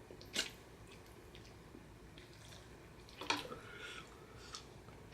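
Wet mouth sounds of someone eating spicy instant noodles: two sharp smacks, about half a second in and just over three seconds in, with a few fainter clicks between.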